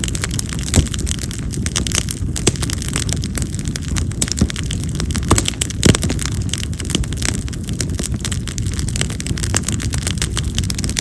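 Split wild mountain cherry (yamazakura) firewood burning in an open fire: a steady low rush of flame with frequent sharp crackles and pops, the loudest about six seconds in. Cherry is a wood that pops loudly, almost like firecrackers.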